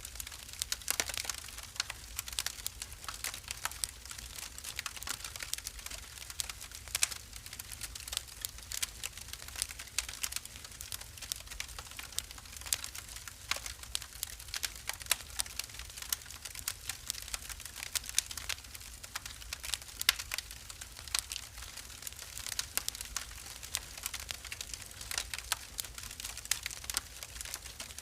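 Wood fire burning in a fireplace, crackling with a steady stream of sharp pops and snaps over a low rumble of the flames.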